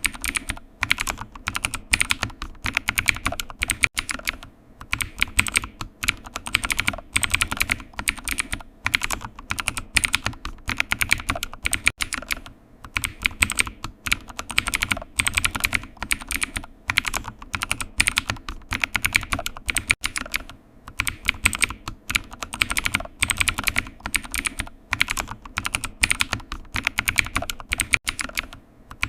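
Typing on a computer keyboard: fast, steady runs of keystroke clicks, broken by short pauses about every eight seconds.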